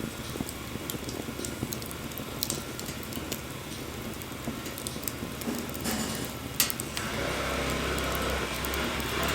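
Wood fire crackling with scattered sharp pops, one louder pop about two thirds of the way in. From about three quarters of the way in, the rumble of an approaching motor vehicle grows underneath.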